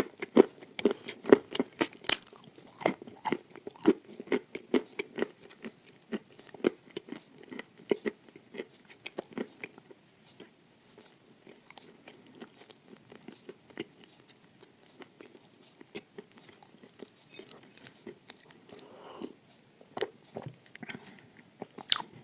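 Close-miked biting and crunching of a crumbly boat cookie, with many sharp crunches in the first half, then slower, softer chewing, and a few sharp crunches again near the end.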